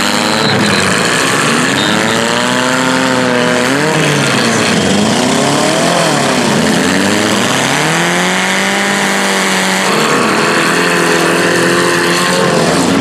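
Several demolition derby cars' engines revving hard, their pitch climbing and falling again and again as the drivers throttle up to ram and push.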